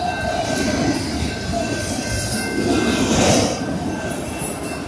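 Freight train of autorack cars rolling past a level crossing: steady noise of wheels running on the rails, swelling briefly about three seconds in.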